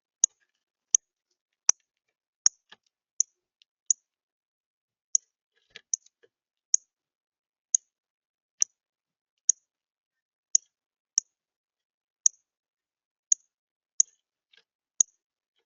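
A bird's sharp, high chip note, repeated a little more than once a second and slightly unevenly, each chip very short.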